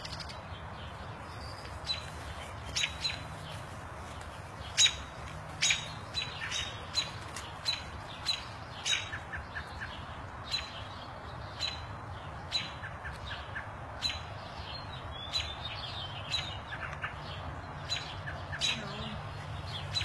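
A bird calling in short, sharp chirps and clicks, repeated every second or so and sometimes in quick runs of four or five pips, over a steady low hum.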